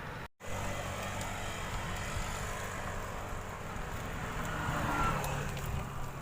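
A motor engine running steadily, after a brief cut to silence just at the start.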